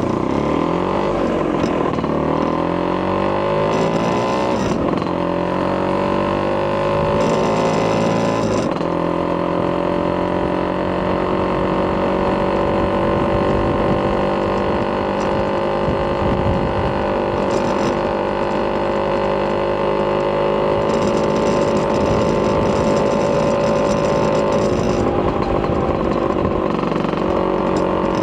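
Vespa PX200's single-cylinder two-stroke engine, bored out with a Polini 210cc kit and breathing through a Malossi expansion-chamber exhaust, running steadily. Its pitch shifts up and down over the first several seconds, then holds steady.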